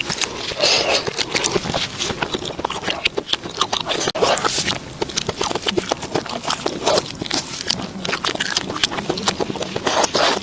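Close-miked eating: a person chewing and crunching food, a dense, irregular run of crisp crackles and mouth clicks.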